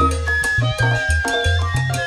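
Salsa-charanga band music: a syncopated bass line under steady percussion strokes and held melodic notes.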